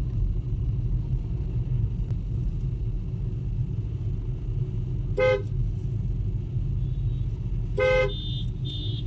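Steady low rumble of a car on the road, with two short car-horn honks about five and eight seconds in.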